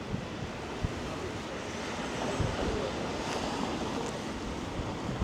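Steady hiss of rain on a wet town street, with a few soft low thuds.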